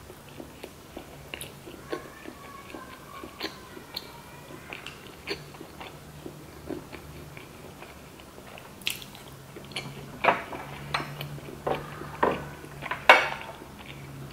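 Close-miked chewing of a sushi roll with the mouth closed: uneven soft wet mouth clicks and smacks, which grow louder and come faster over the last five seconds or so.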